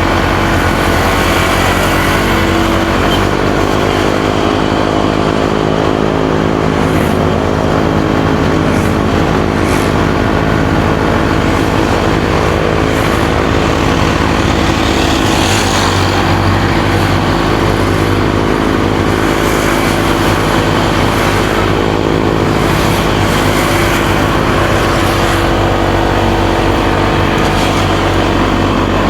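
Motorcycle engine running steadily under way, its pitch shifting a little now and then, with wind rushing over the microphone.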